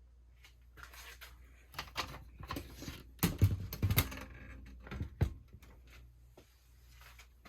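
Irregular handling noise: a string of clicks, knocks and rustles, with the loudest thuds about three and a half to four seconds in and again just past five seconds.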